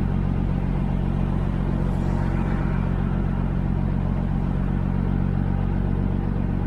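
Kenworth W900 semi truck's diesel engine running steadily under way, with road noise.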